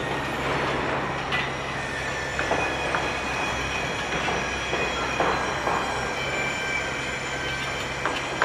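Construction-site machinery running with a steady low hum and a thin high whine, with scattered sharp metallic clanks and knocks.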